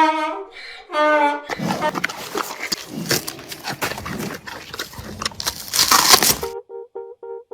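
Giant panda calling: a run of rough, noisy, breathy calls lasting about five seconds. Then a short repeating plucked tune with a steady beat starts.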